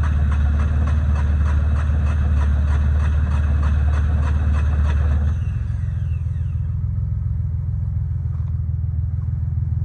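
Yanmar YM146 tractor's diesel engine running with a steady, regular beat. A little past halfway through it drops to a quieter, lower run, with a short falling whine as it settles, and keeps rumbling.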